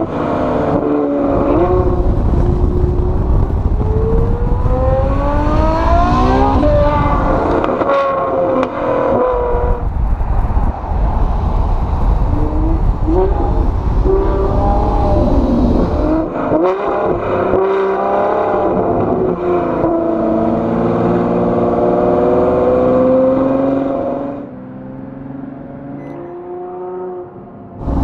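Novitec Rosso N-Largo (modified Ferrari F12) V12 running loud through its aftermarket exhaust, its pitch rising and falling in several revving sweeps. It drops away for a few seconds near the end, then comes back loud.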